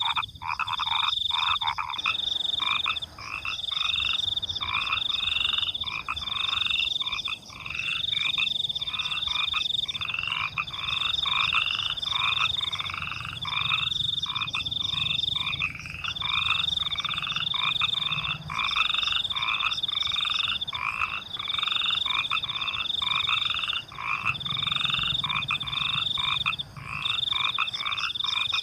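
Night chorus of frogs croaking in a quick, unbroken run of short repeated calls, over a high, steady cricket trill that pulses on and off every second or two.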